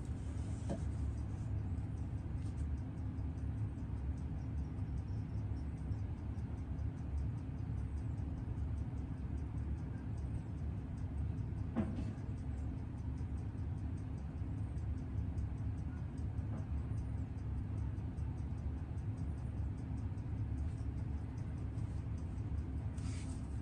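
A Seiko 6138 automatic chronograph movement ticking fast and evenly while it runs in on test after a service, over a steady low hum. One sharper click comes about halfway through.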